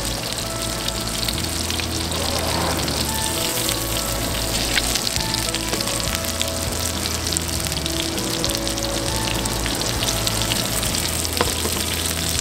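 Fish fillets sizzling in hot cast-iron skillets, the wine and lemon-juice liquid around them bubbling with many small pops. Background music with held bass notes plays underneath.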